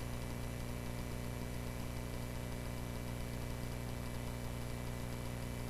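Cessna 140A's small piston engine droning steadily in flight, an even, unchanging hum heard in the cockpit between radio calls.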